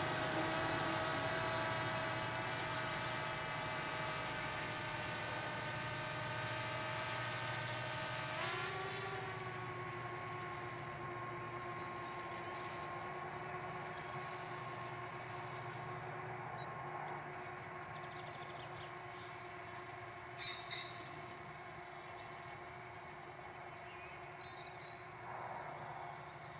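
A train's engine running with a steady hum of several tones that shifts to a new pitch about a third of the way in, slowly fading as the train draws away. Birds chirp briefly in the second half.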